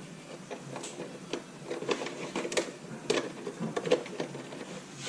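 Irregular small clicks and knocks of hands working parts loose while replacing a headlight bulb, several louder taps between about one and four seconds in.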